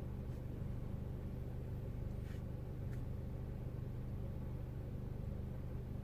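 Peugeot RCZ's 1.6-litre turbocharged four-cylinder petrol engine idling steadily while it warms up from a cold start, with no dip in the idle here.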